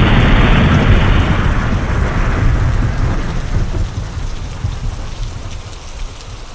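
Thunder rumbling and dying away over steady rain, following a sharp crack just before; the rumble and rain fade gradually lower throughout.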